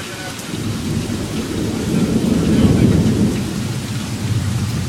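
Thunder rolling through a heavy rainstorm: a low rumble builds to its loudest about two to three seconds in and then fades, over the steady hiss of rain.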